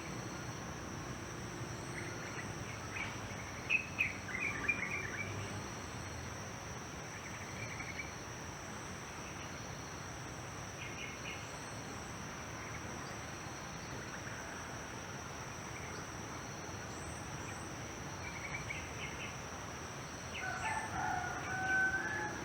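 Rural morning ambience: a steady high insect drone, with short bird chirps, loudest about four seconds in, and a rooster crowing near the end.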